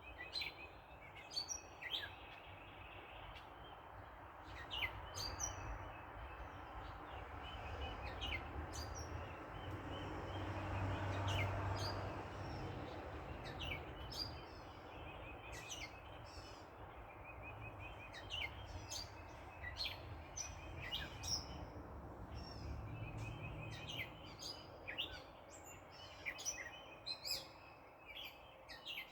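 Several songbirds chirping outdoors, with short sharp calls, quick downward sweeps and fast trills, over a steady background hum of distant traffic. A car passes in the middle, building up and fading away, and a fainter vehicle goes by later.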